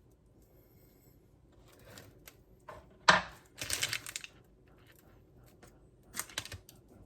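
Spatula scraping and knocking against a mixing bowl as thick brownie batter is scraped out: a sharp knock about three seconds in, then a brief run of clattery scrapes, and another brief run near the end.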